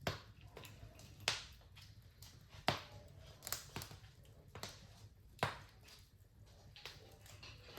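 Wood fire in a fireplace crackling: sharp, irregular pops about once a second over a low, steady hum.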